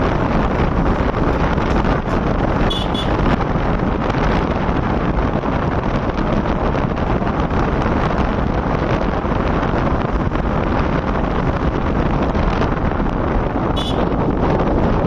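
Wind buffeting the microphone on a moving motorbike, over a steady rumble of engine and road noise. Two short high blips come about 3 seconds in and near the end.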